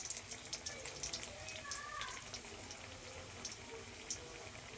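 Potato chapli kababs shallow-frying in hot oil: a steady sizzle with scattered small crackles and pops.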